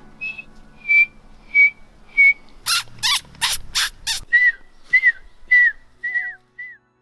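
A man whistling imitations of bird calls. First come four short high notes about half a second apart, then about five loud sharp clicks, then several whistled notes that each drop at the end.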